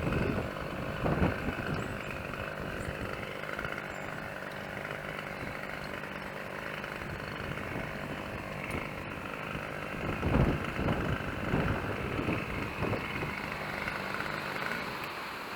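Gusts of wind buffeting the microphone, strongest near the start and again about two-thirds of the way in, over a steady engine hum.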